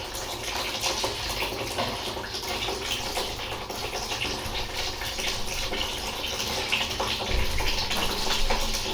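Water running and splashing steadily while a dog is being bathed.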